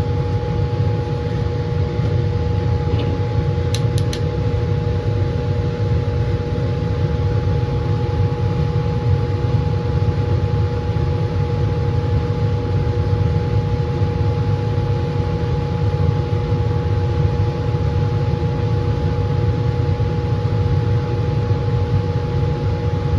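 Laminar flow hood's blower fan running steadily: a low, even roar with a steady hum tone in it. A couple of light clicks come about four seconds in.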